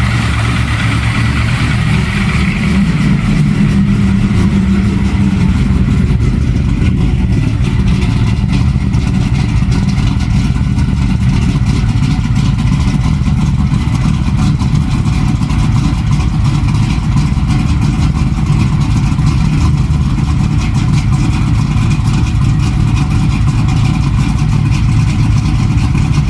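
Chevrolet LT1 5.7-litre V8 in a Pontiac Trans Am idling steadily while it warms up after a cold start, running pretty smooth.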